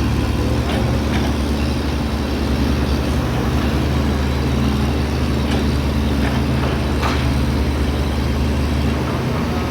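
Excavator's diesel engine running steadily under load, with a few short clanks, the clearest about seven seconds in.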